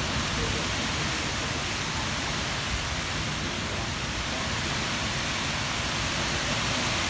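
Storm wind and heavy rain making a steady roar, swelling slightly near the end.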